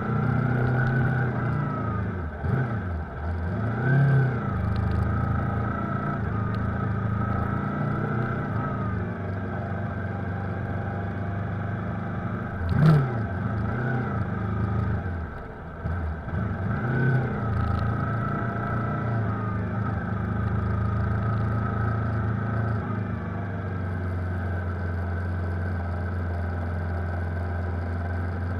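Yamaha R3's 321 cc parallel-twin engine running at low revs, rising and falling a few times as the bike creeps along in slow traffic. A short sharp knock comes about halfway through.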